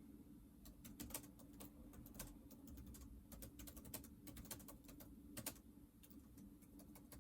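Faint typing on a computer keyboard: irregular runs of quick key clicks, starting under a second in, over a low steady hum.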